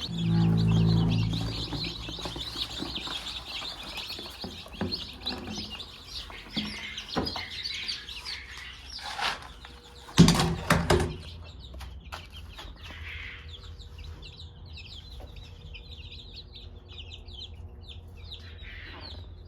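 Free-range chickens clucking, with rapid high-pitched cheeping through the first half. A louder low call sounds at the start, and a sharp loud burst about ten seconds in.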